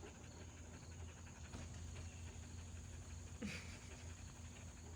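Dogs panting softly while waiting to be fed, over a steady low hum, with one brief louder sound about three and a half seconds in.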